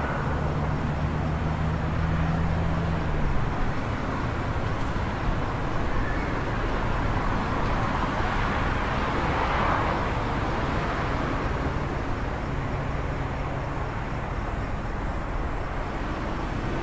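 City traffic noise: a steady wash of road noise with an engine humming low for the first few seconds and a vehicle swelling past in the middle.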